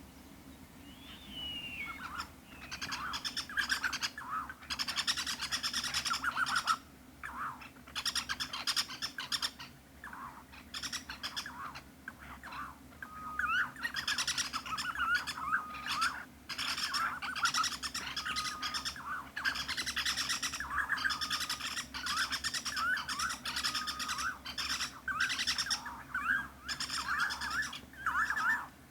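Birds calling and chattering, many short calls overlapping almost without pause, with brief whistled notes mixed in; it starts up about two seconds in.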